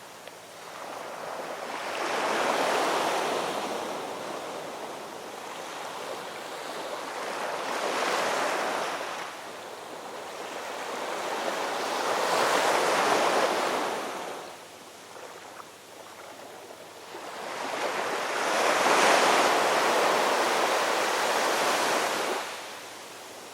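Ocean surf breaking on a shore: four waves swell into a rushing wash and fade back, the last one the longest.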